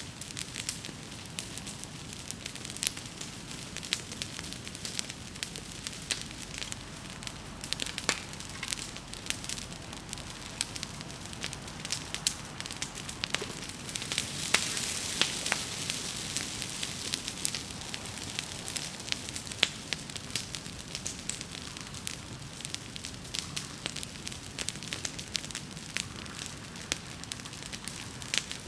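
Wood bonfire crackling steadily, with frequent sharp pops and snaps. A stretch of louder hissing rises about halfway through and eases off after a few seconds.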